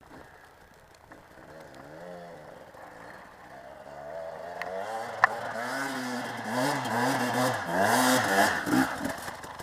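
Motocross bike engine revving up and down again and again, its pitch swinging with each blip of the throttle, growing louder as it comes closer. A single sharp click about five seconds in.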